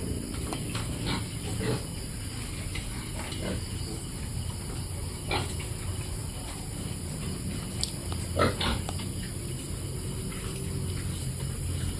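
Piglets feeding, with short grunts and squeals every second or two. The loudest comes about eight and a half seconds in.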